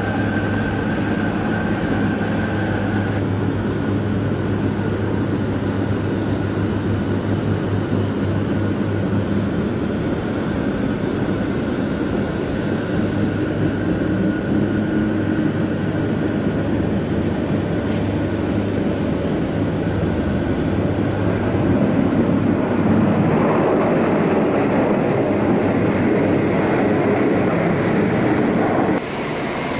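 Airliner jet engines running with a steady drone and a high whine, swelling into a louder rush about two-thirds of the way through, then cut off abruptly near the end.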